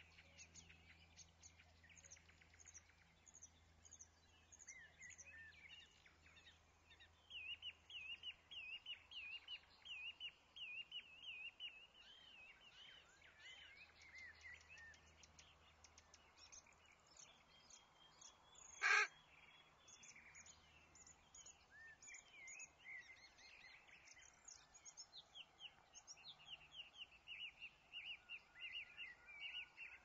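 Birds chirping and twittering, with runs of quick repeated notes. About two-thirds of the way in there is one brief, louder sharp sound.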